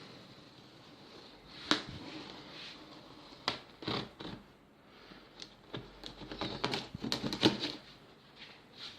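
A cardboard box being opened by hand: irregular rustling and scraping of cardboard and packing, broken by sharp clicks and snaps, busiest near the middle and toward the end.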